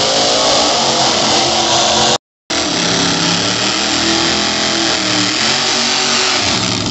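Drag-racing car engines at full throttle, loud, their pitch rising as the cars accelerate down the strip. The sound cuts out briefly about two seconds in, then engines rev again with a wavering pitch while a car does a burnout.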